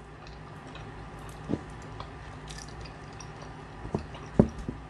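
Close-miked chewing and wet mouth sounds of someone eating a saucy chicken wing, with scattered small clicks. A few short soft thumps come near the end, the loudest about four and a half seconds in.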